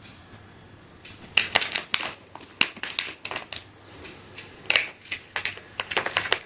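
Crisp clicks and rustles from a cat at play, coming in quick irregular clusters from about a second in.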